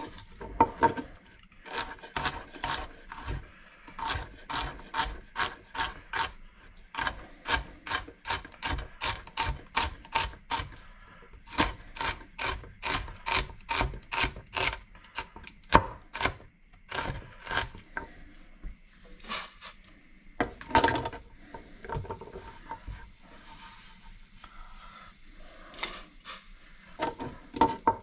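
Kitchen knife chopping vegetables on a cutting board: a steady run of sharp cuts about two a second, in spells broken by short pauses, thinning out over the last third.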